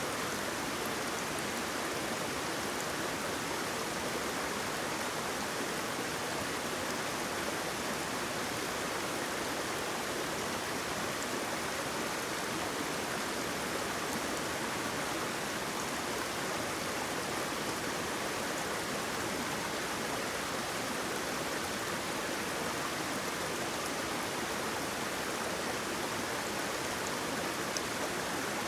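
A waterfall's water rushing and splashing in a steady, unbroken roar.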